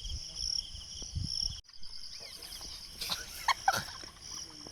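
Insects keeping up a steady, shrill, finely pulsing chorus, cut off for an instant about a second and a half in. A few short, sharp sounds come near the end.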